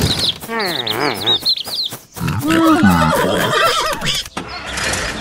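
Dubbed farm-animal sound effects: two wavering animal calls one after the other, the first with a whinnying quiver. Chick peeps carry on faintly at the very start.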